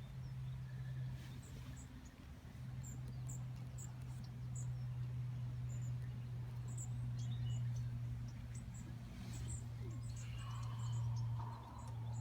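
A steady low hum, with a short break about two seconds in, under many very short, high, thin chirps of small birds.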